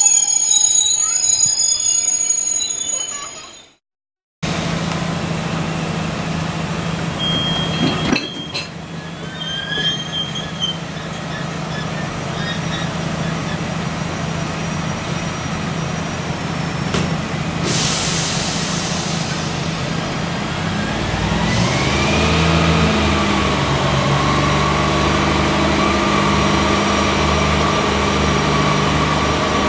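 Loaded biomass hopper wagons rolling past at close range: a steady rumble of wheels on rail, with high-pitched wheel squeal in the first few seconds. The sound cuts out briefly about four seconds in, then the rumble resumes, and thin squealing tones glide up and down in pitch over the last third.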